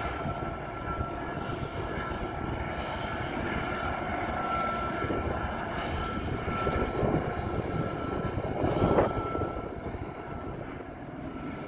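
Diesel locomotives of a Union Pacific freight train running, a steady engine rumble with a thin high whine over it.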